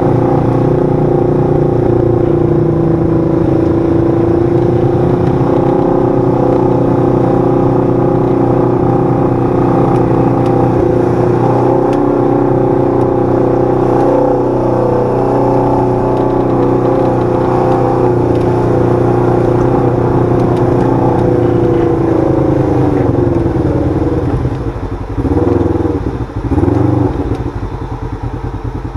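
Side-by-side UTV engine running at a steady speed, then its pitch falls and the level drops about three-quarters of the way through as it slows, with a couple of brief surges near the end.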